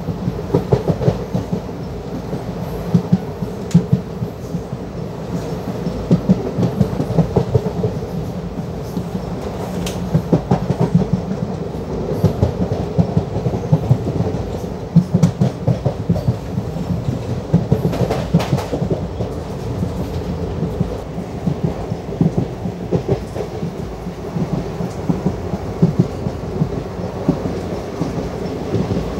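Passenger train coach running at speed, wheels clattering over the rail joints with a steady rumble and frequent irregular knocks, heard from the side of the moving coach.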